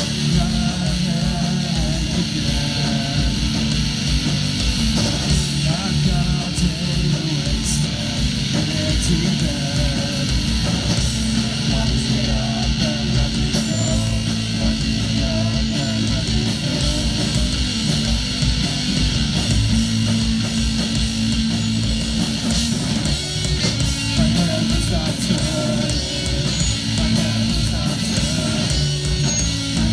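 Live band playing loud rock with distorted electric guitars and bass, steady and dense throughout.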